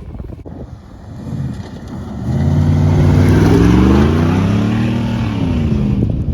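1996 GMC K1500's 5.0-litre Vortec V8 through a custom exhaust, running low for about two seconds, then opening up loudly and accelerating, its pitch climbing and easing back down near the end.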